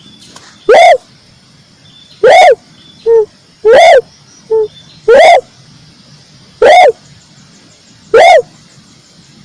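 Red collared dove calls from a lure recording: loud, short arching notes repeated about every one and a half seconds, six in all, with two shorter, lower notes slipped in between them in the middle.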